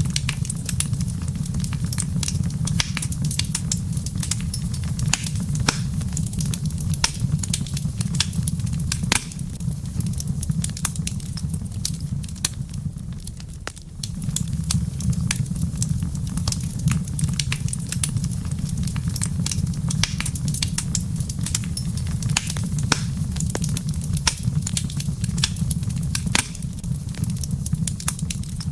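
Wood fire crackling, with frequent irregular sharp pops and snaps over a steady low rumble. The rumble briefly drops away about halfway through, then returns.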